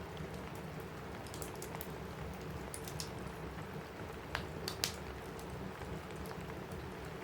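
Steady rain on a roof with scattered sharp crackles from a wood fire, and two louder pops between four and five seconds in.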